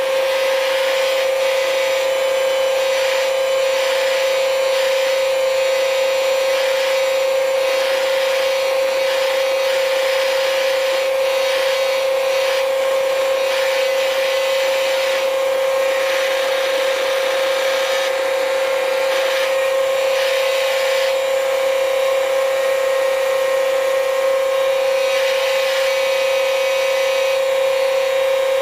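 Workboat machinery running steadily, a constant high hum over a hiss that swells and fades every second or two.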